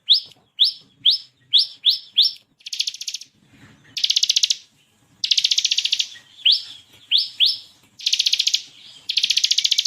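Bar-winged prinia (ciblek kristal) singing: quick series of short, sharply rising chirps alternating with long, rapid rattling trills.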